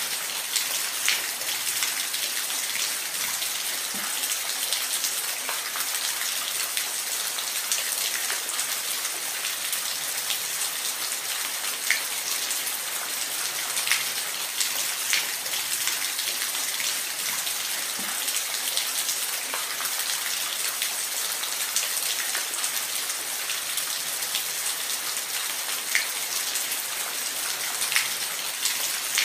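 Falling water, as from a waterfall: a steady, even hiss with scattered sharp splashes and drips a few seconds apart.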